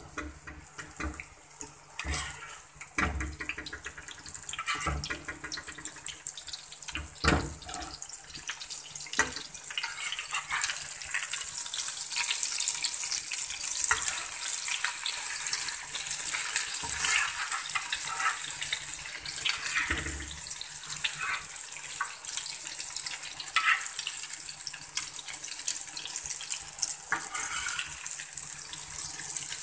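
Egg omelette sizzling in hot oil in a frying pan, the sizzle growing louder about a third of the way in, with scattered clicks and scrapes of a metal spatula and spoon against the pan.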